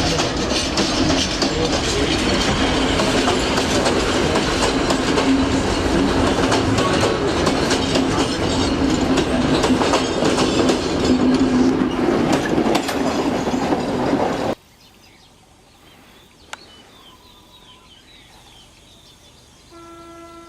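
Train running along the rails: a loud, steady rattle and rumble of wheels and carriages with a low hum and many small clicks. It cuts off suddenly about three quarters of the way through, leaving a much quieter background.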